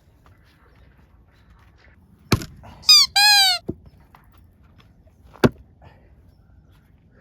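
Two sharp strikes of an axe splitting firewood, about three seconds apart. Just after the first strike comes a short high squeal in two parts whose pitch rises and falls.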